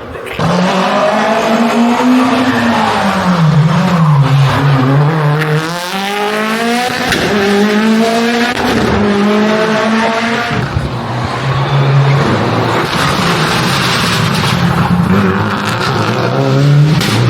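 Rally car engine at full stage pace, the revs climbing and dropping again and again through gear changes and braking.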